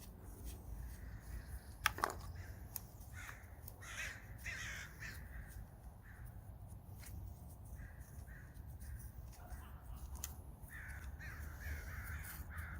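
Crows cawing in several short runs, with a few sharp clicks and clanks of hand tools, the loudest about two seconds in.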